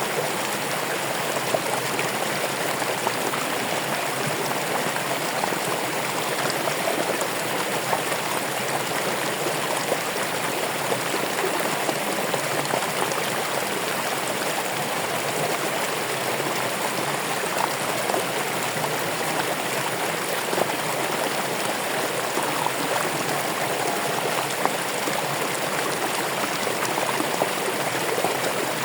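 Running water flowing steadily like a stream, with small splashes and drips scattered through it.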